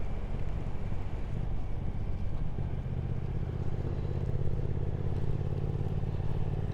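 Triumph Speed Twin 1200's parallel-twin engine running at a steady road speed under road and wind noise, its note settling into an even pitch from about halfway.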